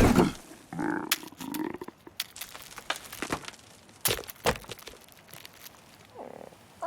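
Cartoon sound effects: a scatter of short cracks and clicks, loudest near the start and again about four seconds in.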